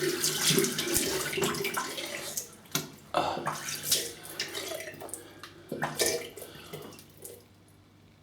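Water running from a tap into a sink, splashing unevenly as a styptic is wetted under it; it stops about seven seconds in.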